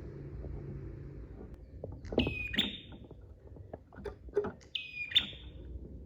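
Prenjak (prinia) calling: two sharp, high call phrases about two and a half seconds apart, the first a little over two seconds in, with short ticking notes scattered between them.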